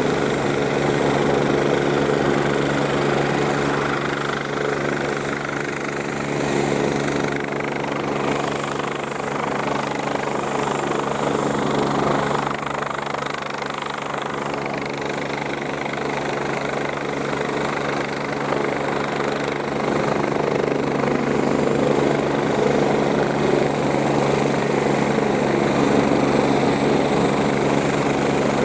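Eurocopter EC-145 twin-turbine helicopter running steadily, its turbine hum carrying several steady tones over a fast, even beat of the rotor blades.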